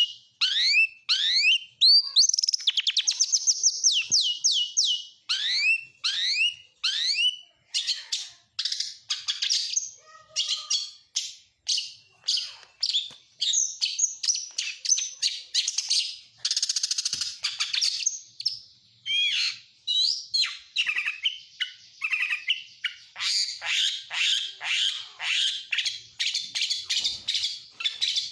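Oriental magpie-robin (kacer) singing a long, varied song, high-pitched runs of rapidly repeated down-slurred whistles alternating with chattering trills, in the mimicry-filled style kept as a master recording for training songbirds.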